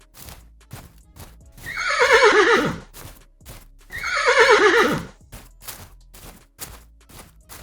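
A horse whinnying twice, each a long quavering call that falls in pitch, over a steady clip-clop of hooves.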